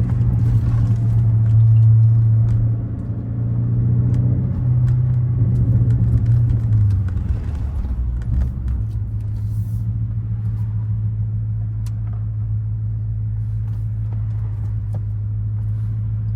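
BMW 550i twin-turbo 4.4-litre V8, exhausting through an H-pipe, catless downpipes and a deleted muffler, droning steadily at low revs while driving. The drone is louder for the first seven seconds, then eases a little and holds steady.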